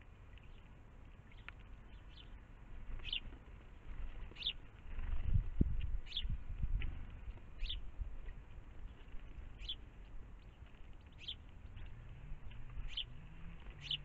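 A small bird calling with short, high chirps repeated about every one and a half seconds, starting about three seconds in. A low rumble swells briefly around the middle.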